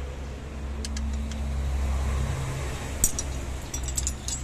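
A steady low engine hum, with a few light metallic clinks of hand tools on the engine about three seconds in.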